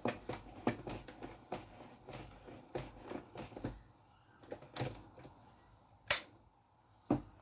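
Light, irregular clicks and taps of kitchen items being handled, with three sharper knocks spaced out in the second half.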